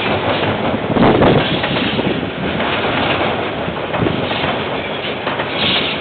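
A KiwiRail train running past on the track, a steady rumble of wheels on rails with some clatter, picked up on a security camera's microphone.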